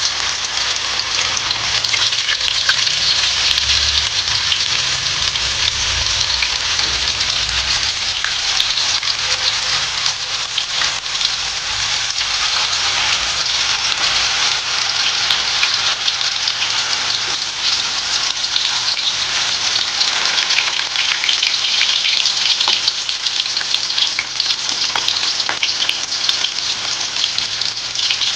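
Blocks of tofu frying in hot cooking oil in a wok: a steady, crackling sizzle.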